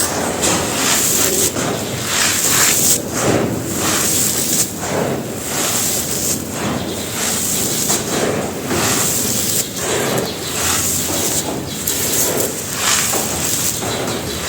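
Lumps of gritty red dirt being crumbled and crunched onto a floor: a constant grainy crackle with louder crunches about every second.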